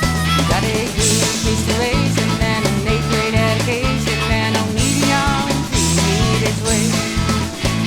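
Country-rock band music: guitar, bass and drums playing with a steady beat.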